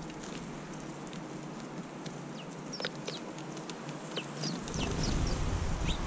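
Small birds at a seed feeder giving a scatter of short, high chirps among light clicks of pecking at seed. A low rumble of wind on the microphone comes in a little before the end.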